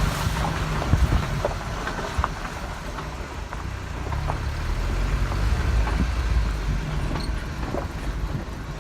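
Vehicle driving slowly over a rough dirt track: a low engine rumble that eases off and picks up again, with scattered knocks and rattles from the bumps.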